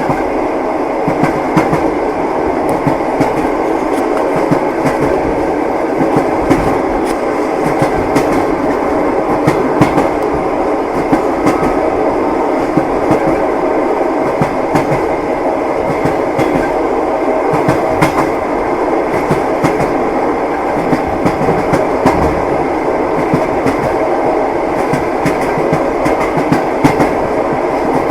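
Train wheels clacking over the rails under a steady rolling rumble of a moving railway carriage, with short irregular knocks scattered through it.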